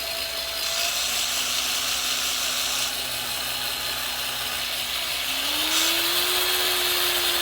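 Traxxas TRX-4 crawler's motor and pinion and spur gears spinning under throttle, a steady gear whine that steps up in pitch about five seconds in. The pinion mesh has just been reset with shims in the motor plate, and the owner finds the drivetrain acceptably quiet.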